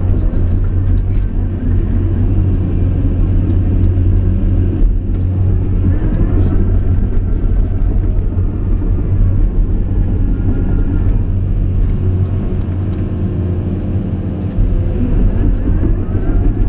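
Caterpillar 349E excavator's diesel engine running with a steady low hum, and a higher whine that rises and falls a few times as the machine works.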